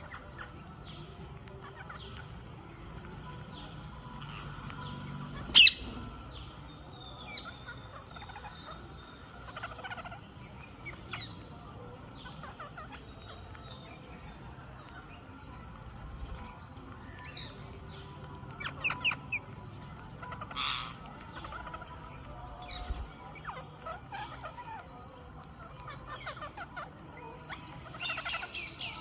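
Rose-ringed parakeets calling: scattered short, shrill calls, the loudest about six seconds in, with a quick cluster of calls near the end.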